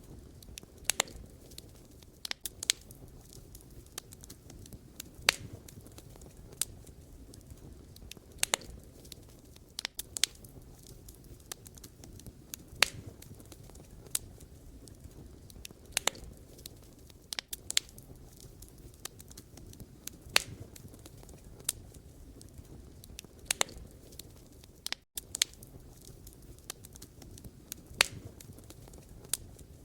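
Wood fire crackling: irregular sharp pops and snaps from burning logs over a low, steady rumble of flame.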